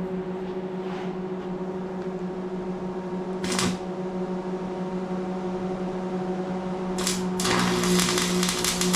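Arc welder laying tack welds: a brief crackle of the arc about three and a half seconds in, another near seven seconds, then a steady crackling arc from about seven and a half seconds on, over a constant low hum.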